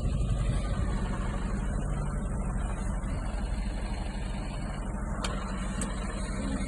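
Heavy Mercedes truck diesel engine running steadily under load with a low, even rumble.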